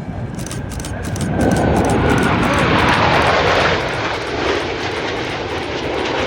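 Aircraft flying past at an airshow, its engine noise swelling about a second in, loudest for a couple of seconds, then easing off while still heard.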